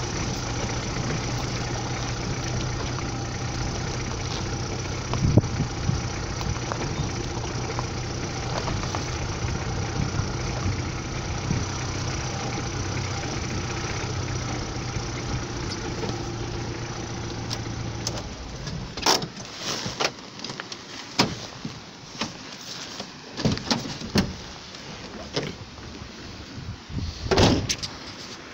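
Car engine running steadily as the car moves slowly along a stony dirt track, then switched off about two-thirds of the way through. After that come scattered sharp knocks and clicks.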